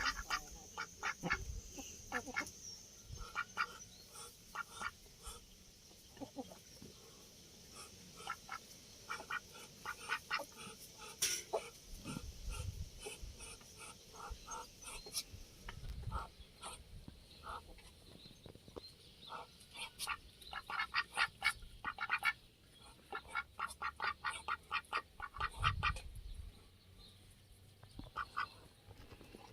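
Domestic ducks quacking: runs of short, repeated quacks from several birds, coming in irregular clusters that grow busier in the second half.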